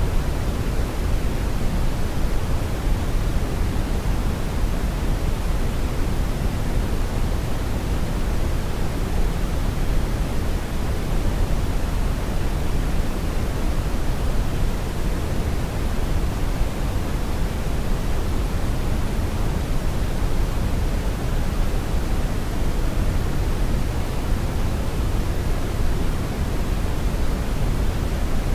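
Steady brown noise: an even, unchanging rumbling hiss weighted heavily toward the bass, with no tones or events.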